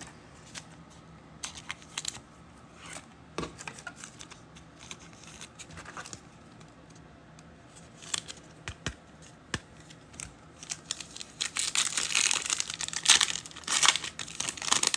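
Trading card pack wrapper being torn open and crinkled by hand, loudest in the last few seconds, after light clicking and handling of cards.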